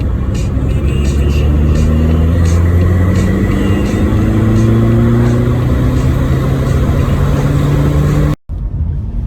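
Seat Leon turbo diesel with a big hybrid turbo accelerating under load, heard from inside the cabin. Its engine note rises slowly and steadily for about eight seconds, then the sound cuts out for a moment and comes back at a lower, steady note.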